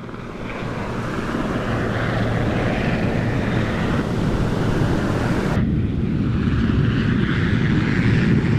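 Animated-film sound effect of the Viper aircraft's jet engines, a steady rumble that builds as they come in overhead. About five and a half seconds in, the high end drops out suddenly and the engine sound turns muffled.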